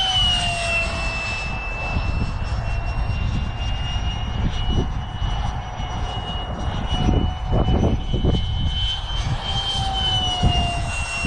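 High whine of a 70mm electric ducted fan on a BD5 RC jet flying by. The pitch drops as the jet passes right at the start and again near the end.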